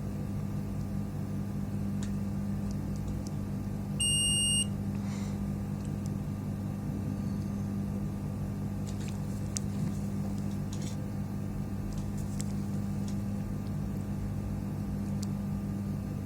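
Multimeter continuity tester giving one short high beep, about half a second long, some four seconds in, while the power supply board is probed for a short. A steady low hum runs underneath, with a few faint clicks later.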